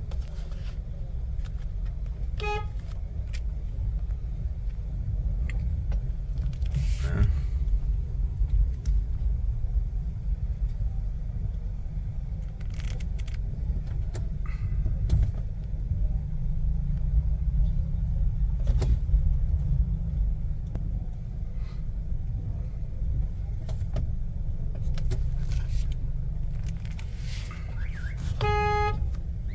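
City street traffic with a steady low rumble. A car horn gives two short toots, a faint one a couple of seconds in and a louder one near the end.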